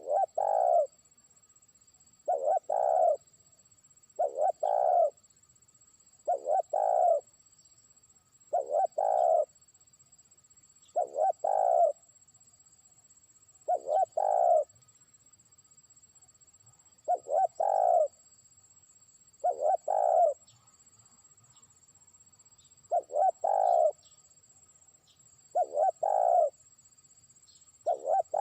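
Spotted dove (terkukur) cooing: a short phrase of a few low coos repeated about every two to three seconds, a dozen times. It is a trained decoy bird calling out to rival doves far off.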